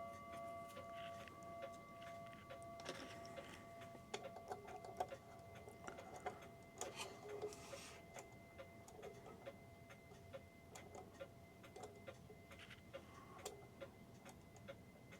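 Pendulum clock movement ticking faintly and evenly, about two ticks a second. Over the first few seconds the ring of a struck chime fades out, and there are a few light knocks of handling.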